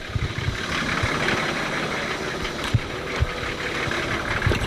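Off-road 4x4 engines idling close by: a steady low rumble under a wash of noise, with a few light knocks.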